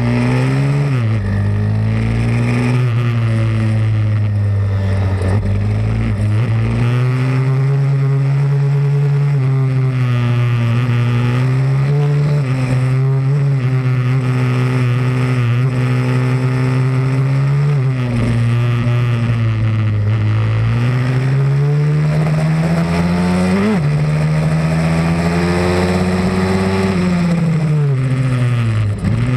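Pit bike's small single-cylinder four-stroke engine being ridden hard around a track. It is loud throughout, its pitch climbing and dropping repeatedly as the rider accelerates and backs off for corners, with deeper drops about a second in, around 18–20 seconds in, and near the end.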